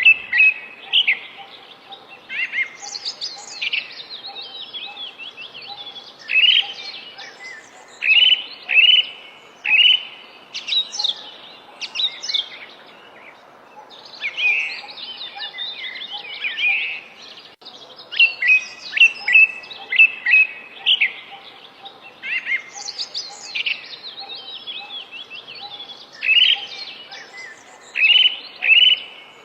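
A songbird singing: short, quick, varied chirps and trills in repeated phrases about every second, with brief pauses between bursts.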